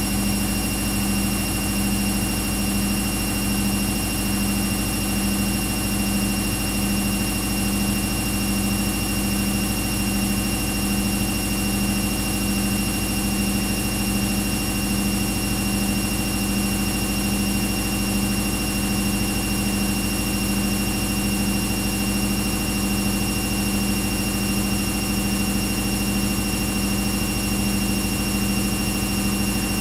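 Washing machine running: a steady mechanical hum with a low drone that pulses evenly, about twice a second.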